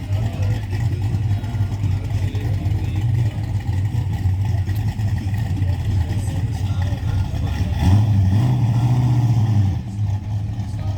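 Car engine running with a low, steady rumble, revved up about eight seconds in and held for a couple of seconds before dropping back.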